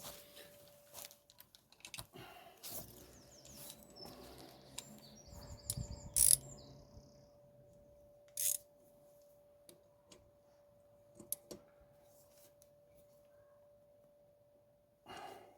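Scattered light clicks and knocks, with a bird chirping briefly in a quick run near the middle, over a faint steady hum.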